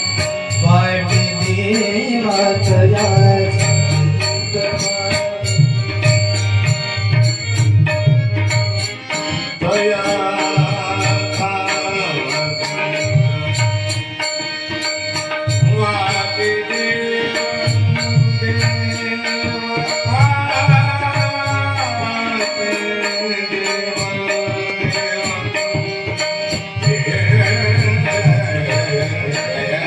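Devotional bhajan music: tabla playing a steady rhythm with a deep bass-drum pulse, small metal hand cymbals struck on the beat, and a melody of long held notes that bend in places.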